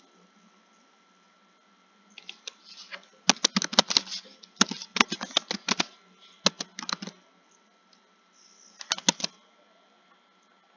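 Computer keyboard typing in bursts of keystrokes: a few light taps about two seconds in, then a quick run of keys lasting about four seconds, then a pause and a short burst near the end.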